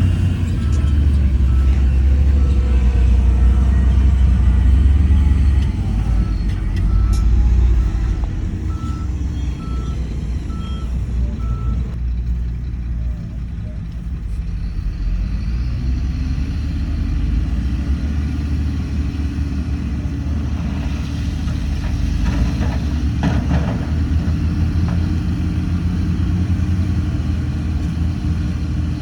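Heavy diesel earthmoving machinery running, with a reversing alarm beeping steadily, about one and a half beeps a second, for the first twelve seconds. The engine note then drops and picks up again from about halfway through.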